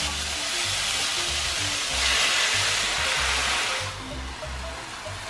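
Food sizzling in a hot wok as it is stir-fried with a spatula, over background music with a steady beat; the sizzle drops away about four seconds in.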